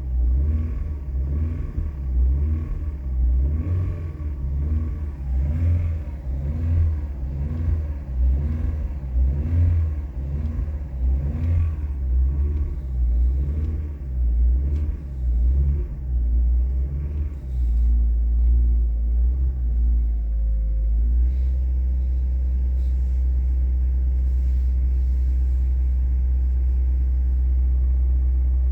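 Car engine revved in quick, repeated throttle blips, a little more than one a second. About two-thirds of the way through it is held up briefly, then settles into a steady idle for the rest.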